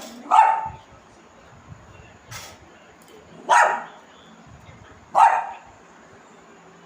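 A dog barking: three loud single barks a few seconds apart, with a couple of fainter sounds between them.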